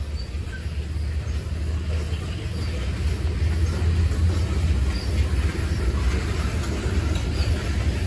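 A freight train's open-top cars rolling past close by. Their steel wheels on the rails make a steady low rumble that grows a little louder.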